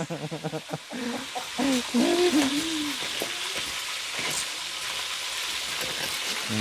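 Chicken frying in hot oil in a wok: a steady sizzle, with a few clicks of a utensil turning the pieces in the first second.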